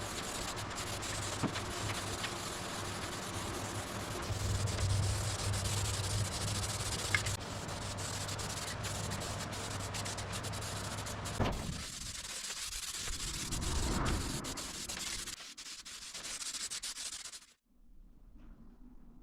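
Sanding of resin primer on a 1967 VW Beetle's steel body panel, with a dual-action sander's steady hum under the rasp of the abrasive disc. About two-thirds of the way in, the hum gives way to quieter, uneven rubbing, which stops near the end.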